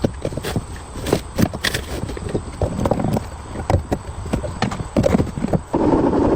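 Irregular knocks and clinks of tools working on an old car. Near the end a steady rushing noise starts.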